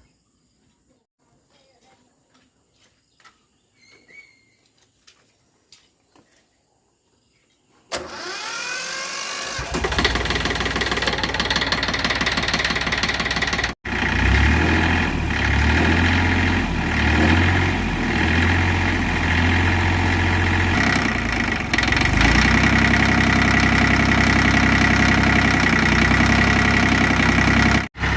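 Near quiet with a few small clicks, then about eight seconds in the tractor's engine is started, its pitch rising as it catches, and keeps running steadily and loudly. The sound drops out very briefly twice.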